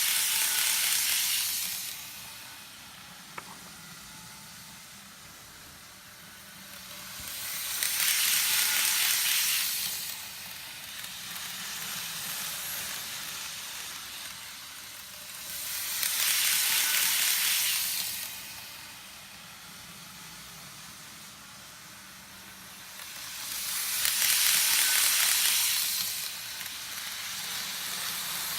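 Model trains running round a loop of track: a rushing rattle of wheels on rail swells up each time a train passes close, four times about eight seconds apart, over a fainter steady running sound. There is a single small click about three seconds in.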